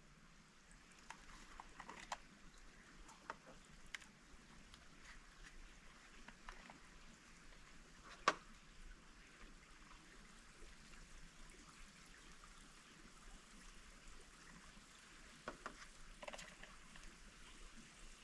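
Faint trickling of a stream, with scattered small clicks and taps, the sharpest about eight seconds in.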